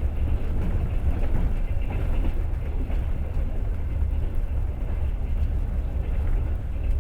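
Passenger train running at speed, heard from inside the carriage: a steady low rumble of the wheels on the rails.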